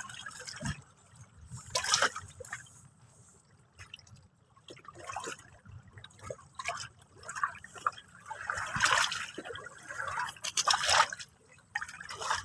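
Small sea waves lapping and splashing at the water's edge in irregular surges, with quieter trickling and dripping between them.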